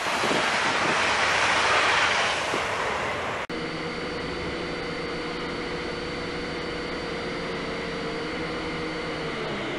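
Red DB Regio electric multiple unit running past over a bridge, a loud rushing rail noise that peaks about two seconds in and fades. About three and a half seconds in it cuts to the steady, even-pitched hum of a quadcopter drone's motors and propellers picked up by its own onboard camera.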